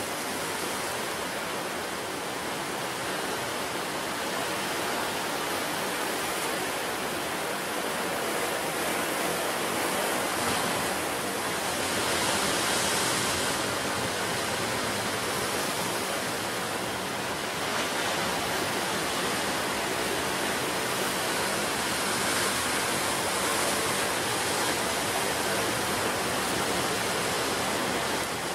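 Sea surf breaking on the shore: a continuous rushing wash of water that swells a little louder every few seconds.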